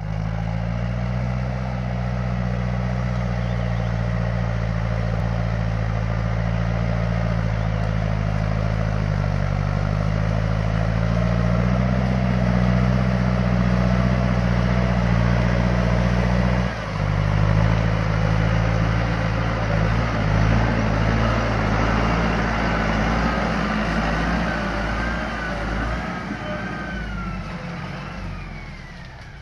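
Tractor engine running steadily while plowing, its low note shifting slightly now and then and changing abruptly about 17 seconds in. The engine fades out over the last few seconds.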